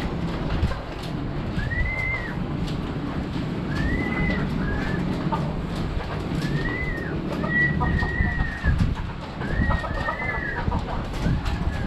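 Birds calling: short arching calls repeat about every two seconds over a steady low rumble.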